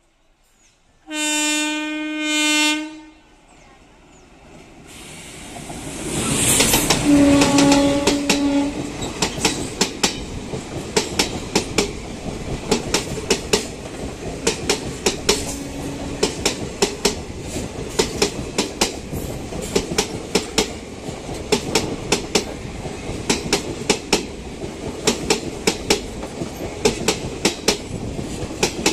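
Train horn blasts: one about a second in, broken briefly, and another around seven seconds in as the oncoming express hauled by a WAP-4 electric locomotive rushes past close alongside. Its coaches then stream by with a fast, steady clickety-clack of wheels over rail joints.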